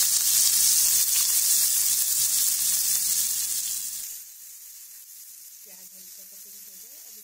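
Chopped onion frying in hot oil in a pan, sizzling loudly with a steady high hiss. About four seconds in the sizzle drops suddenly to a faint hiss.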